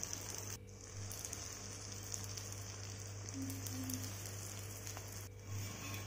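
Oil sizzling steadily around a ragi (finger millet) adai frying on a hot tawa, with two brief dropouts.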